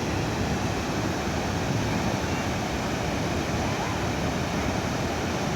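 Steady roar of Gira waterfall, water pouring over the falls without a break.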